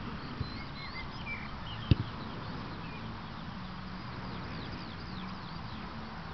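Birds chirping, many short falling chirps, over a steady outdoor background hiss and low hum, with one sharp knock about two seconds in.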